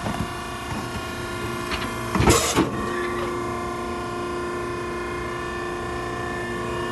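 Hydraulic cardboard baler running: a steady motor-and-pump hum, with a loud clunk a little over two seconds in, after which the hum settles into a stronger steady tone as the baler works under load.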